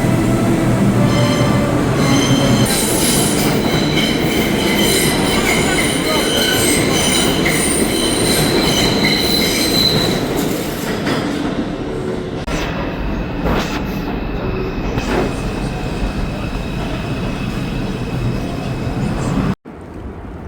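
New York City subway train running on its track, its wheels squealing with several high steady tones over the first half. After that it settles into a lower rumbling ride, and the sound cuts off abruptly near the end.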